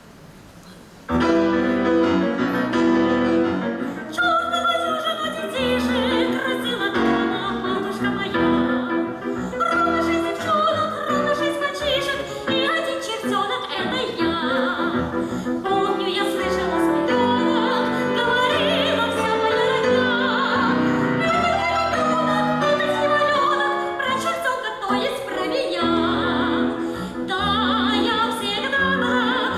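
Operetta song: a female soprano singing in operatic style with vibrato over instrumental accompaniment, the music starting about a second in.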